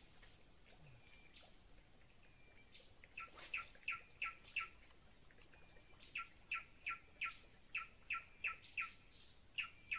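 A bird calling in repeated series of short notes, each falling in pitch, about three a second, starting about three seconds in and again from about six seconds on, over a faint steady high-pitched whine.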